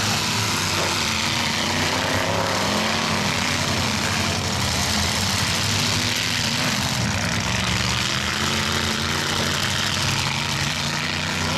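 Several demolition derby trucks' engines running together, a steady mechanical din with the pitch rising and falling a little as they rev.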